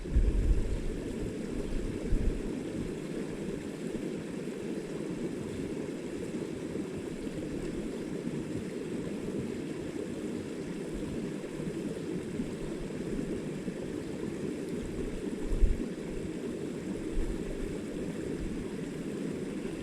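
Small stream's water running steadily, an even low rushing. A brief low thump about fifteen seconds in.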